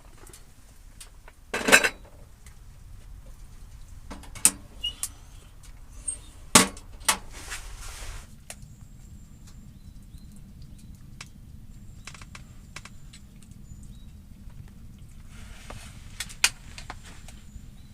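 Scattered clinks and knocks of metal utensils against camping cookware, the sharpest about two seconds in, with a brief rustle around the middle, over a steady low rumble.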